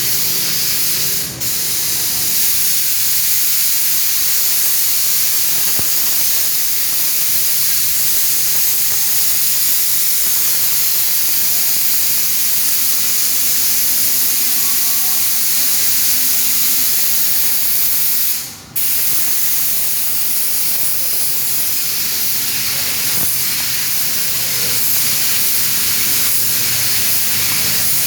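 Air-fed paint spray gun spraying paint, a steady hiss of compressed air and atomised paint that cuts out briefly twice, about a second in and again past the middle, as the trigger is released.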